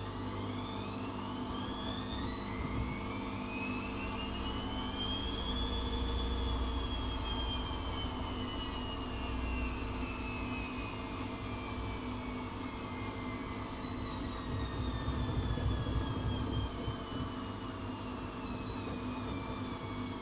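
ATLANT 70C1010 washing machine's drum motor whining as it speeds up over about six seconds, then slowly winding down, over a steady low hum and rumble.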